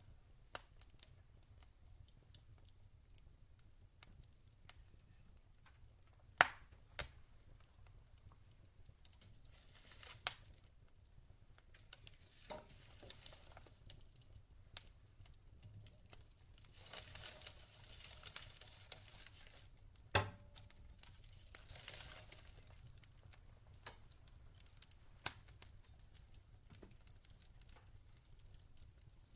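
Log fire crackling softly: scattered sharp pops and snaps, two much louder ones about six and twenty seconds in, with stretches of hissing between them.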